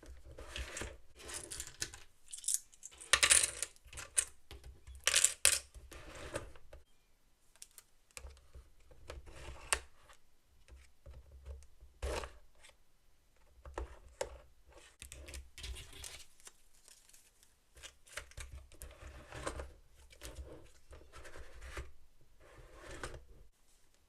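Close-up handling of small hard toy pieces and their packaging: an irregular run of clicks, clinks and rustles in short bursts with brief pauses.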